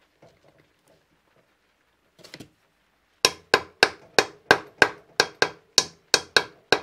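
Hammer tapping: a single knock about two seconds in, then a quick, even run of about a dozen light blows, roughly three a second, each with a short ring.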